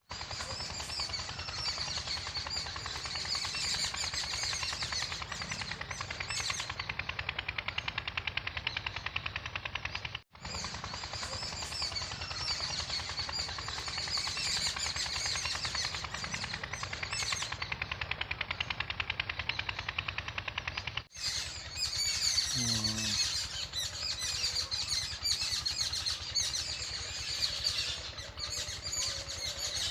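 Many birds chirping and chattering at once in a dense, rapid, unbroken chorus. It drops out abruptly twice, about ten and twenty-one seconds in.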